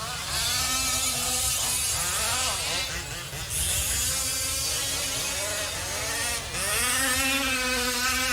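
Several 1/5-scale RC off-road trucks' small two-stroke petrol engines buzzing as they race, pitches rising and falling as they accelerate and back off. The engines swell louder about half a second in and again around three and a half and seven seconds in.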